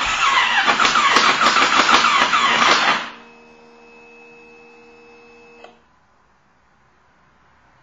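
Kawasaki ER-6 parallel-twin being cranked on its electric starter, a rough rapid churning that does not catch: the bike won't start. The cranking stops abruptly about three seconds in. A faint steady hum follows and cuts off with a click near six seconds.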